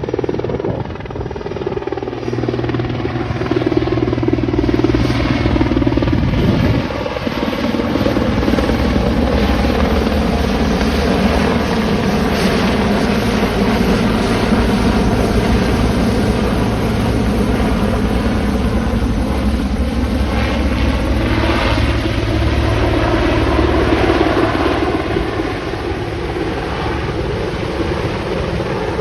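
Firefighting helicopter close by, its rotor beating steadily under the engine's whine as it comes in to land; the pitch of the engine sound sags and rises again as it manoeuvres.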